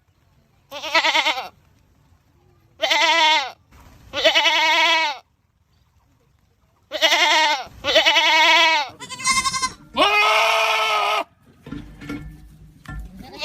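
Goats screaming: a run of about seven separate loud, wavering bleats, each half a second to a second long, with short silent gaps between them.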